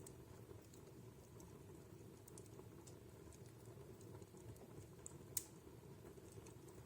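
Wood fire burning in a fireplace, faint and low: a soft steady rumble of flames with scattered small crackles of the burning wood, and one sharper pop about five seconds in.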